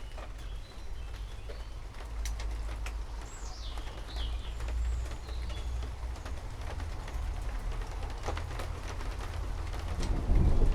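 Steady rain with scattered drips over a low rumble, and a few short bird chirps. Near the end a roll of thunder begins to build.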